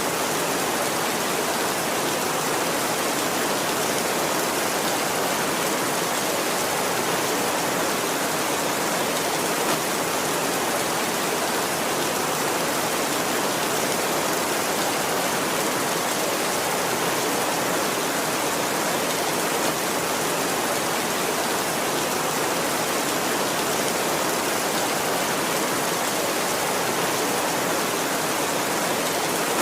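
Heavy rain falling steadily on a tin roof, an even unbroken patter.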